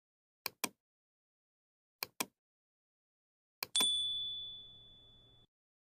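Three pairs of sharp double clicks about a second and a half apart; the third pair is followed by a single high bell-like ding that rings on, fades, and cuts off suddenly. Edited-in click and ding sound effects over dead silence.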